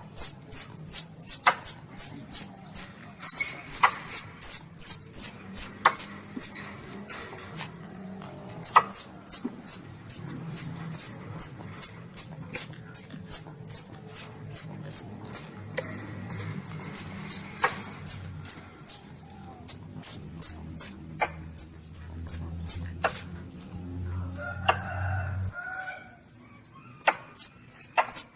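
Baby civet (luwak) calls: rapid, very high-pitched squeaks, each sliding downward, about three a second in runs with short pauses. A low hum underneath stops about 25 seconds in, and after a brief gap the squeaks start again.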